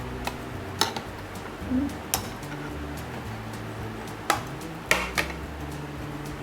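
Cutlery clinking against plates during a meal: several sharp, separate clinks a second or so apart.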